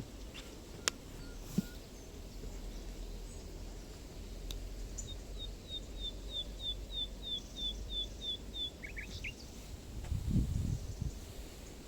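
A small bird calling a rapid, even series of about a dozen short, high, downward-sliding notes, about three a second, lasting roughly four seconds over a steady low outdoor rumble. Near the end there is a brief, louder low rustling.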